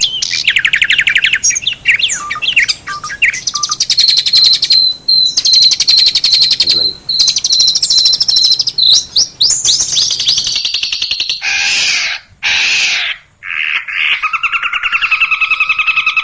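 Long-tailed shrike (cendet) singing a varied, fast chatter of buzzy repeated notes and trills, with a high held note that pulses rapidly in the middle. Near the end, a steady pulsing two-pitch sound takes over.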